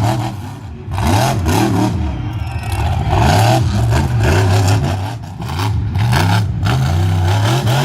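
Monster truck engine revving hard, its pitch climbing and falling again and again as the throttle is worked, with short drops in loudness about a second in and about five seconds in.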